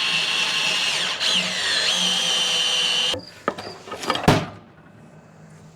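Sawmill hydraulic pump whining steadily, most likely as the raised toe board is run down, its pitch sagging briefly under load about a second in. The whine cuts off after about three seconds, followed by a couple of clicks and one sharp knock.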